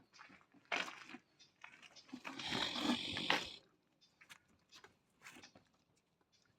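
Puppies moving about and chewing, with scattered rustles and clicks and a longer stretch of scuffling about two to three and a half seconds in.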